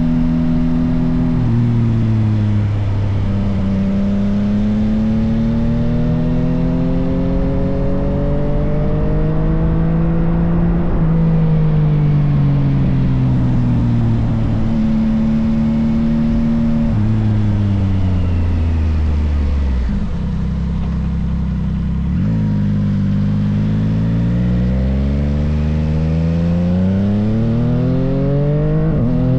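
Yamaha XSR900's inline-three engine through an M4 full exhaust, pulling up through the gears: the note climbs and drops back at each shift, twice in the first half. About two-thirds of the way through it slows to a low, steady note for a couple of seconds, then climbs again through several quick shifts near the end.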